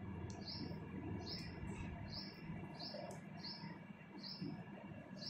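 A bird chirping over and over, about two short falling chirps a second, over a faint steady hum.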